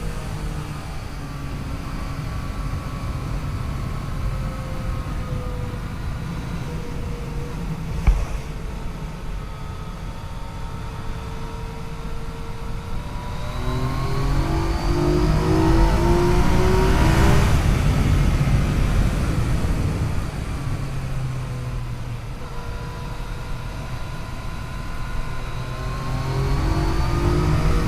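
Yamaha FJ-09's three-cylinder engine under way, its pitch falling as it slows and rising as it accelerates, loudest on a pull about halfway through and rising again near the end. A single sharp knock about eight seconds in, over a steady low rushing noise.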